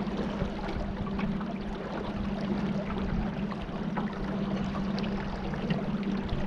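Small boat's motor running at a steady, even hum, with water washing along the hull.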